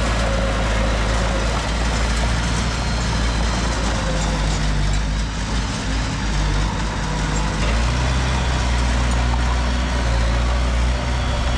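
Heavy diesel engine of earthmoving machinery running steadily, its pitch shifting slightly about four seconds in and again near eight seconds.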